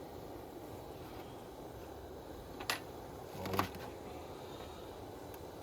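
Two light knocks, about a second apart, over a steady low background hum.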